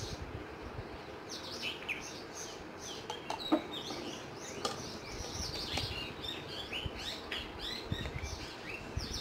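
Small birds chirping, with many short falling chirps in quick succession. A few clicks and knocks of a plastic oil bottle and its cap being handled come through, the sharpest about three and a half seconds in.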